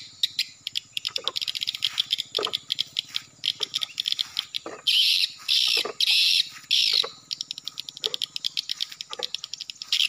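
Swiftlets twittering: a fast, continuous stream of high chirps, with several louder, longer buzzy bursts a little after the middle.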